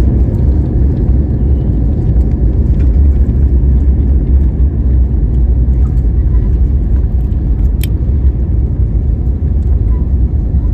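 Loud, steady low rumble of a Boeing airliner rolling on the ground after touchdown, heard from inside the cabin, with a single sharp click about eight seconds in.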